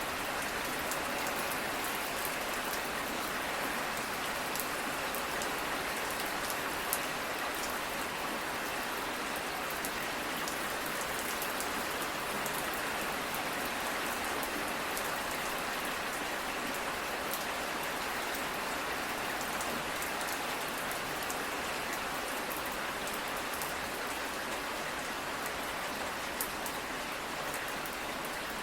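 Steady rain falling, a continuous hiss with many small drop taps on a surface, holding even throughout.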